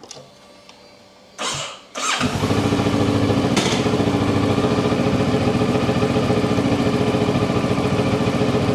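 Kawasaki Ninja 650's parallel-twin engine starting: after a short burst of noise, it fires just after two seconds in and settles into a steady idle.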